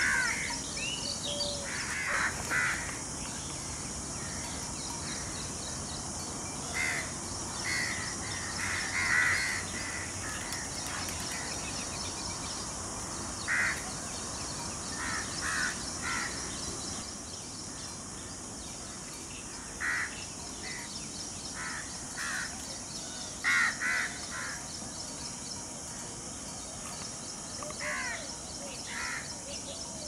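Bird calls, short and repeated every few seconds, often in quick twos or threes, over a steady high hiss of outdoor ambience.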